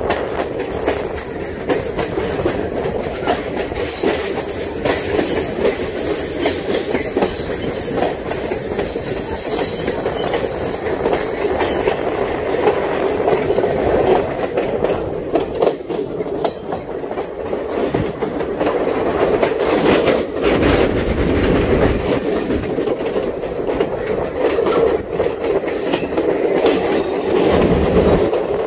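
Passenger train running along the track, heard from on board: a steady rumble of wheels on rail with frequent clicks, and a thin high squeal that comes and goes during the first twelve seconds or so. The low rumble grows heavier twice in the second half.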